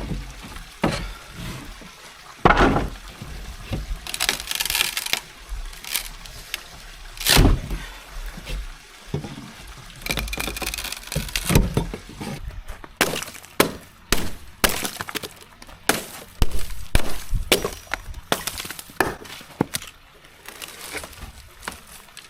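Rotten jetty deck boards and timbers being ripped up: many sharp cracks, splintering and knocks of breaking wood.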